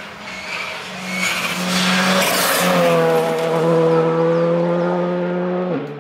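Rally car passing at full speed, its engine held at high revs with tyre noise as it goes by. The engine note drops sharply near the end.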